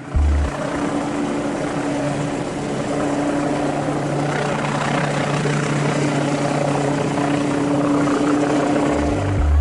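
Helicopter flying: a steady, dense noise with a low, even hum running under it.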